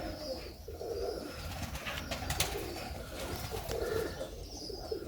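Serbian Highflyer pigeons cooing softly, with a few sharp clicks about halfway through.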